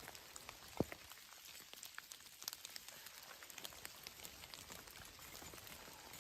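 Rain falling, an even hiss dotted with many scattered drop ticks; one sharper tap about a second in.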